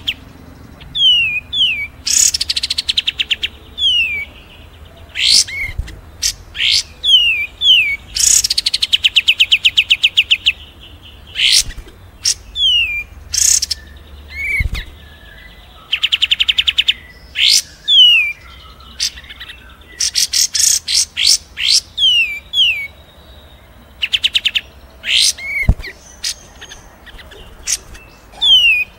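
Songbirds singing in a mixed mastering recording of kapas tembak, cililin and fighting Eurasian tree sparrow: fast rattling trills alternate with pairs of quick down-slurred whistles and sharp high chips, in short phrases with brief pauses between them.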